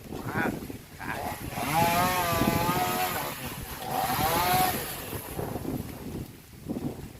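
Two-stroke chainsaw revving up in two bursts as it cuts: one about two seconds in, lasting a second and a half, and a shorter one around four seconds.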